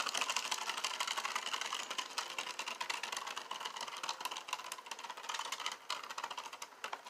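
Two Beyblade spinning tops clashing and grinding against each other in a plastic stadium: a dense, fast rattle of small clicks that slowly gets quieter.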